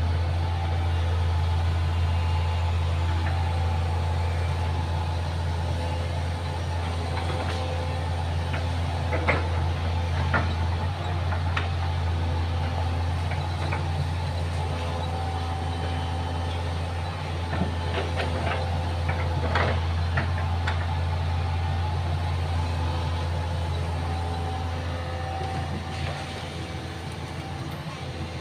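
Excavator's diesel engine running steadily, with occasional sharp knocks and clunks over it.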